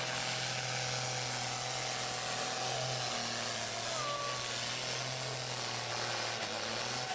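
Steady engine noise from a truck or tractor puller at a pulling track: an even rushing noise with a low drone and a faint whine.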